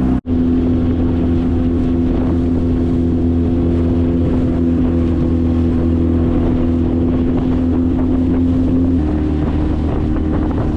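Small boat's motor running steadily at low speed, with a slight change in its note about nine seconds in. The sound drops out for an instant just after the start.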